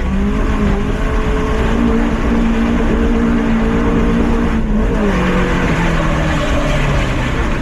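Lifted Mazda MX-5's engine pulling steadily under throttle, with road and wind noise. The engine note rises about two seconds in and drops back about five seconds in.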